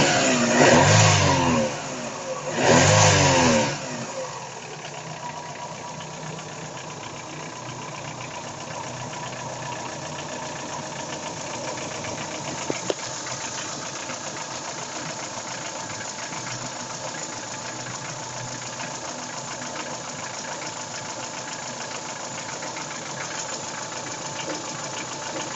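Daewoo Nexia 16-valve petrol engine revved briefly twice, then idling steadily with a knock. The knock comes from the piston and connecting-rod group, which had to be replaced to cure it.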